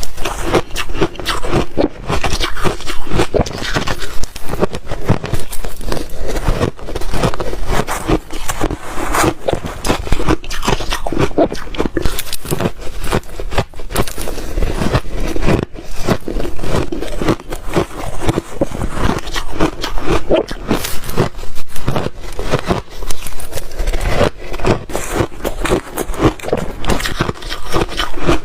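A person chewing and biting ice close to the microphone: a continuous loud run of sharp crunches and crackles as the ice breaks between the teeth.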